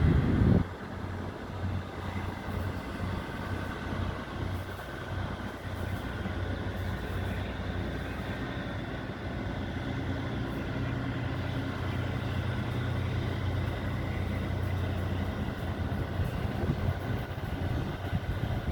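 River express boat's diesel engine running steadily with a low, even drone, after a brief loud burst at the very start.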